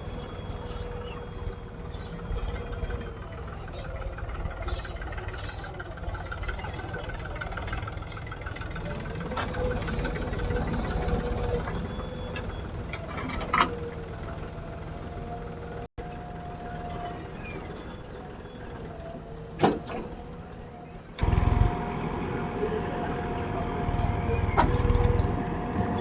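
Diesel engine of heavy machinery running steadily, with a few sharp knocks; the sound steps up abruptly in loudness about four-fifths of the way through.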